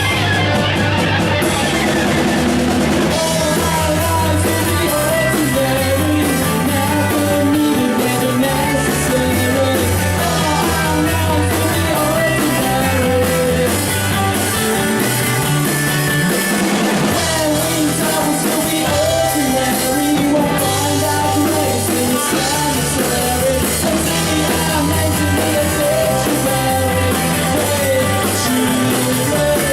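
Rock music with a drum kit, guitar, bass and a singer, playing steadily and loudly.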